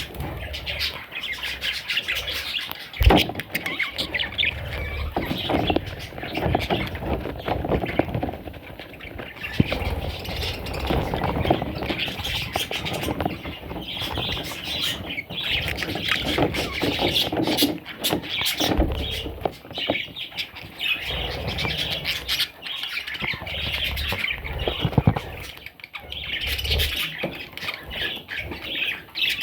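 Budgerigars squawking and chirping in continuous, overlapping chatter, with a sharp knock about three seconds in.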